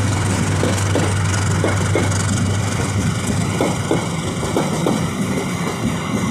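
Diesel locomotive engine running with a steady low hum that weakens over the last couple of seconds, over a rhythmic clack of train wheels on the rails, about two or three knocks a second.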